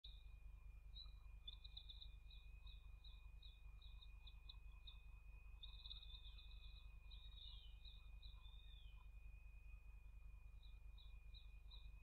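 Faint high bird chirps, a quick run of short repeated notes with a warbling stretch around the middle and a pause before they resume near the end. Beneath them run a steady thin high tone and a low hum.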